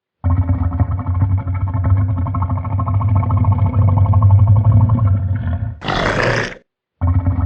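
A large animal growling, a deep rough, rapidly pulsing growl lasting about five and a half seconds. Near the end comes a short, harsh, breathy snarl, then a brief break before the deep growl starts again.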